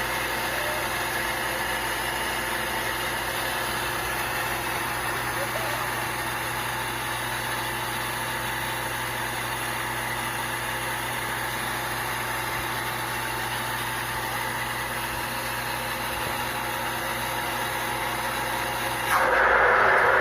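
A 1 hp Bolzano shallow well water pump running with a steady hum. About a second before the end, a louder rushing noise joins it.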